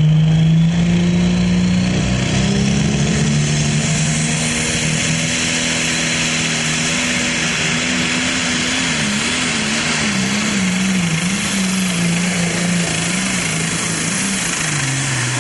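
Diesel super stock pulling tractor running at full power down the track over a heavy high hiss, its engine pitch climbing early on. The pitch wavers up and down for a few seconds in the middle and falls away near the end as the run slows.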